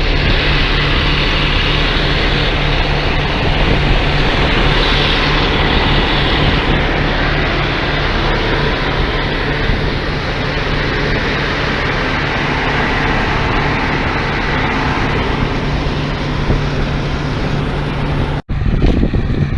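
DON-1500 combine harvester running steadily, a constant low engine hum under dense mechanical rattle and rush. The sound drops out abruptly near the end.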